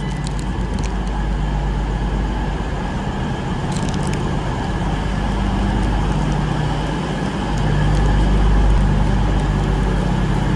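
Steady low hum of trains standing at a station platform with their on-board equipment running, the nearest a Class 350 electric multiple unit. It grows louder about eight seconds in.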